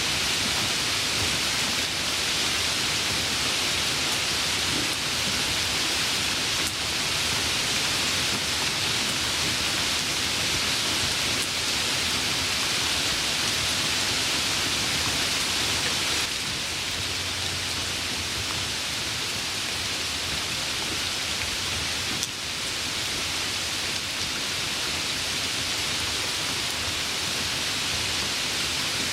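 Steady rainfall, an even hiss that becomes slightly quieter a little past halfway.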